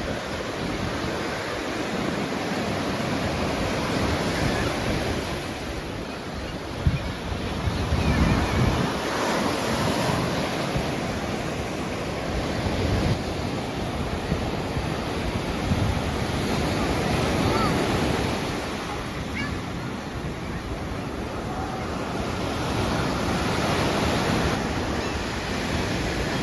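Ocean surf breaking on a beach, a steady wash of waves that swells and eases every few seconds, with wind gusting on the microphone.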